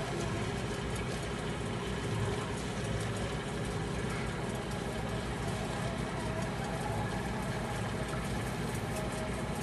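A yacht's inboard engine running steadily under way, a continuous even hum with a low rumble.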